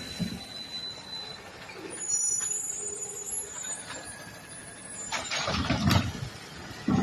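Garbage truck working: high, thin squealing for about two seconds, then a loud rushing burst with heavy clunks about five seconds in, and another clunk near the end.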